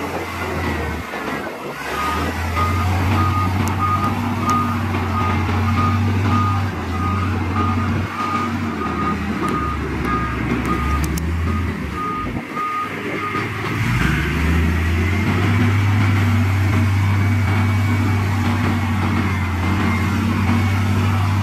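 Heavy diesel earthmoving machinery running with a reversing alarm beeping at an even pace, a bit more than once a second. The beeping starts about two seconds in and stops around thirteen seconds. The engine note drops briefly near the end of the beeping, then picks up and runs steadily again.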